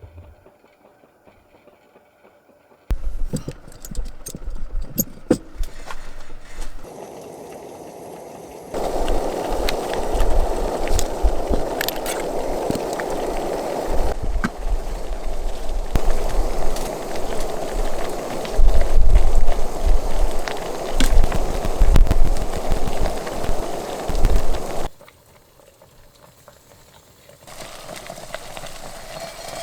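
Wood fire burning in a fire pit, crackling with sharp pops over a steady hiss and a deep rumble. The sound jumps in level at several abrupt cuts, and is loudest in the second half.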